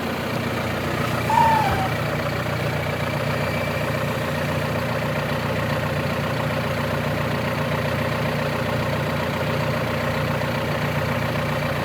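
John Deere 6125M tractor's diesel engine idling steadily. About a second and a half in, a short high squeak gliding downward briefly rises above the engine.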